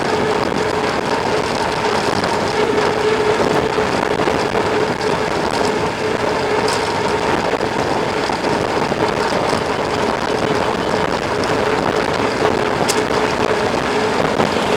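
Mountain bike ridden at speed, heard on the rider's camera: a steady rush of wind over the microphone and tyres rolling, with a steady hum running under it.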